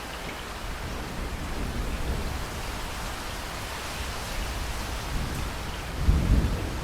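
Steady heavy rain with thunder rumbling low. The rumble swells about a second in and breaks into a louder, sharper roll near the end.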